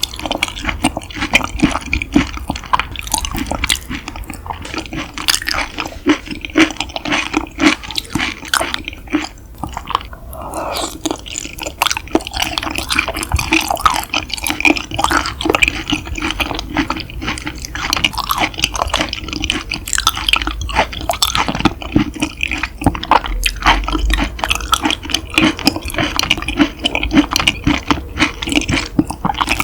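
Close-miked chewing of yukhoe (seasoned raw beef), a dense run of quick mouth clicks and crackles that keeps up throughout.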